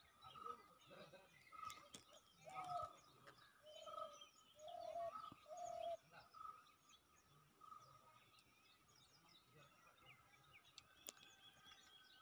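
Birds calling. One bird repeats a short, even note about once a second, a dove coos four times between about two and a half and six seconds in, and faint higher chirps are scattered throughout.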